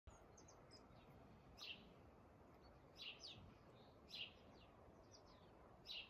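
Faint bird chirps: short, high, downward-sliding notes, repeated every second or so.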